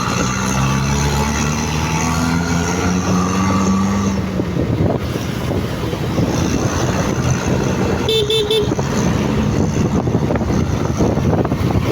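Motorcycle riding along in traffic: engine running with wind and road noise, its note rising slightly in the first few seconds. About eight seconds in, a vehicle horn toots in a quick run of short beeps.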